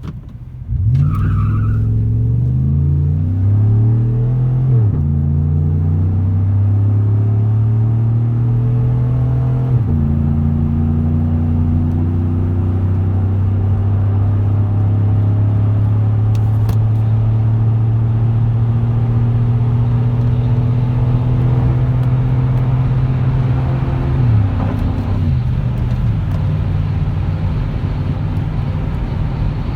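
A 2015 Chevrolet Silverado's 5.3-litre V8 with a 3-inch straight-pipe exhaust is accelerating hard through the gears. The engine note rises and then drops sharply at upshifts about 3, 5 and 10 seconds in. It then holds a long, slowly climbing pull until the throttle comes off about 24 seconds in.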